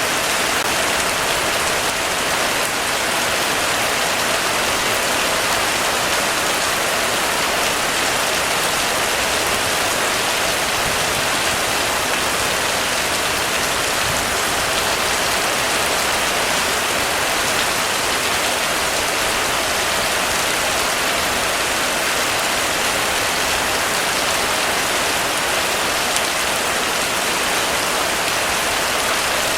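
Heavy rain falling steadily on a roof, a dense, even patter with no letup.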